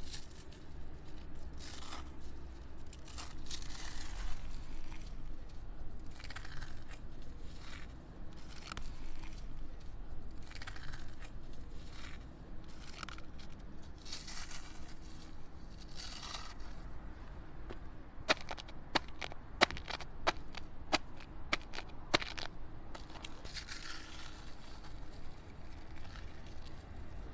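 Gritty scraping and crunching of loose asphalt patch material being worked, in irregular strokes, with a quick run of about eight sharp knocks around two-thirds of the way through.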